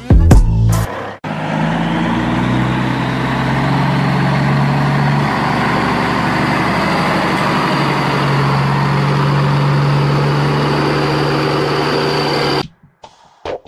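A motor running steadily, its low pitch shifting a few times, then cut off abruptly near the end.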